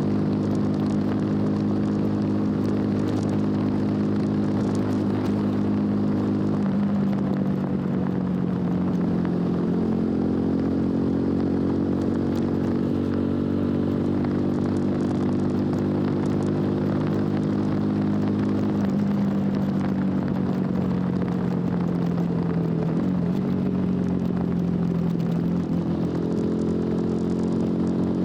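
TVS Apache RTR 200 4V's single-cylinder engine running through its stock exhaust under way. Its note steps down in pitch about a quarter of the way in, eases down again about two-thirds through, and climbs back up near the end.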